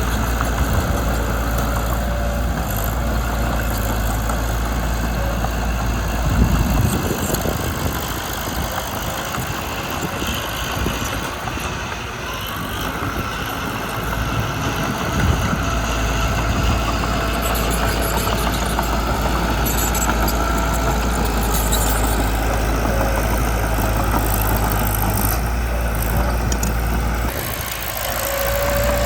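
Mitsubishi BD2 small bulldozer's diesel engine running steadily, with a brief squeal near the end.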